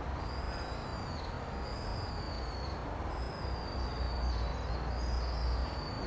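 A bird calling over and over, a thin high note about once a second, each swelling slightly and fading, about five times. Under it is a low rumble of wind on the microphone.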